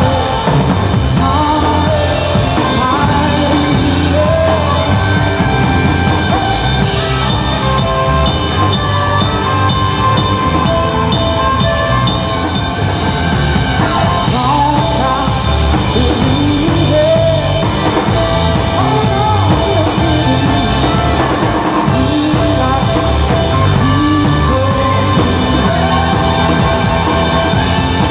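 Live band playing a rock song at full volume, with drum kit, bass and a sung vocal line.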